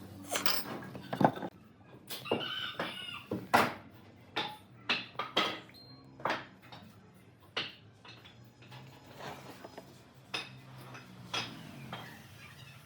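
Irregular sharp knocks and clatter, a dozen or so spread unevenly, with a chicken clucking briefly now and then.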